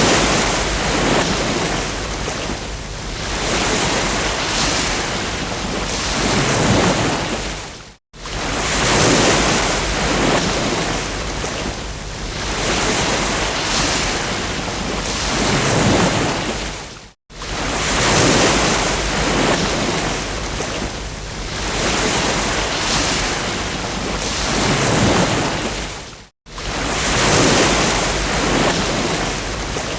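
Ocean surf breaking on a beach as a steady, loud wash that swells and ebbs. It drops out completely for a split second about every nine seconds, three times here.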